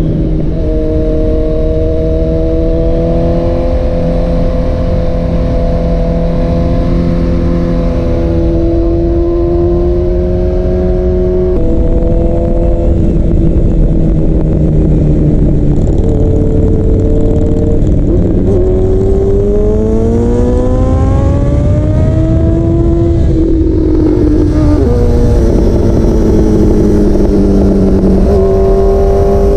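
2023 Honda CB1000R's inline-four with Black Widow headers and a Leo Vince exhaust, heard from the rider's seat while riding. It holds steady revs at first, steps down in pitch about a third of the way in, rises in a long pull through the revs in the second half, drops sharply at a gear change, falls away as it slows, and settles steady near the end.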